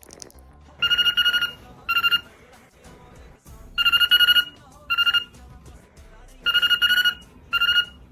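Telephone ringing with an electronic trill, in three rounds of a longer ring followed by a short one.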